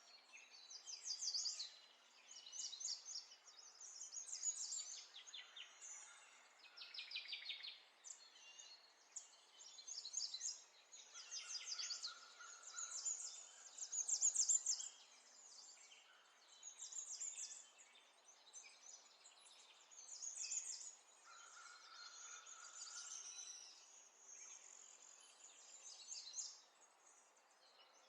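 Songbirds chirping and trilling in quick high phrases that recur every second or two, over a faint steady hiss.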